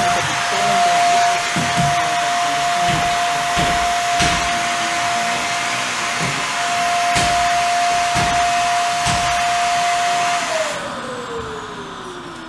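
Loud steady rushing noise with a single held high tone through it, from an electronic noise drone. About ten seconds in, the noise cuts off and the tone slides downward as it fades.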